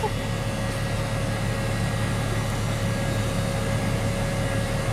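Steady machine hum: a low drone with a faint steady higher tone over it, unchanging throughout.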